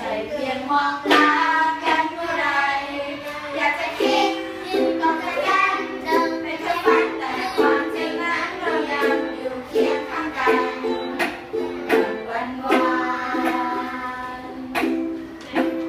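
Children singing a Thai pop song to a strummed ukulele accompaniment.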